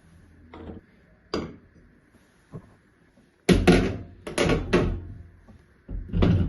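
A string of knocks and clatters from household things being handled, with the loudest cluster about three and a half to five seconds in and another near the end.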